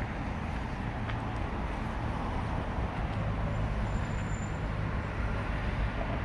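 Steady road traffic noise, an even low rumble with no single vehicle standing out.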